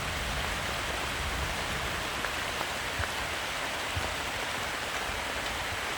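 Heavy rain falling steadily on a camp shelter, with a few single drops standing out.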